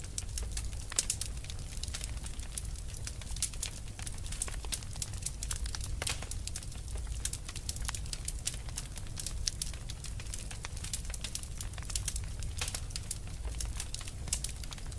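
Fire burning with dense, irregular crackling and popping, over a steady low rumble.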